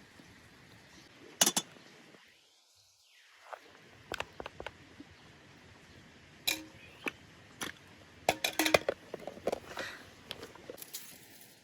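Cooking utensils and dishes clinking and knocking: a string of irregular sharp strikes over a faint background hiss, the loudest a bit over a second in and a cluster of them later on.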